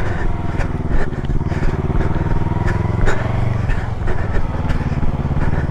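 Motorcycle engine running steadily at low revs close by, with faint regular ticks over it.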